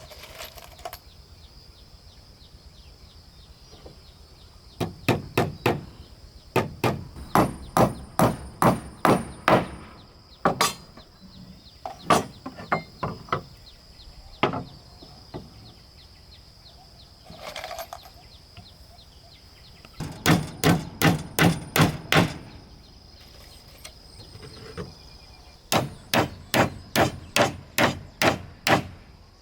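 Hammer striking wood in several quick runs of blows, about four a second, with pauses between the runs.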